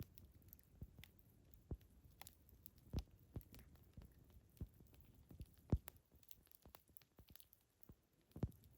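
Campfire wood crackling and popping with irregular sharp snaps, a few of them louder, over a faint low rumble.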